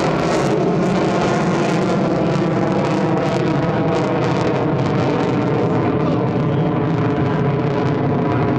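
Fifth-generation fighter jet engine running loud and steady, a dense hiss with a droning tone in it; the highest hiss drops away about half a second in.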